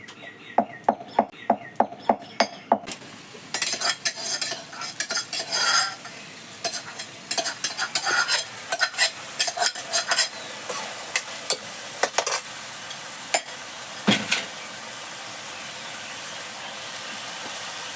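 Pork frying with spices in a pan: a spatula taps the pan about nine times in quick succession, then stirs and scrapes through the sizzling meat, with one heavier knock near the end.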